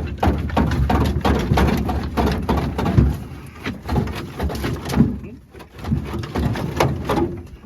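Repeated metallic knocking, clanking and rattling as a VW Karmann Ghia's air-cooled engine is jiggled and worked loose from the car's engine bay. The sound is a dense run of short knocks, heaviest in the first few seconds.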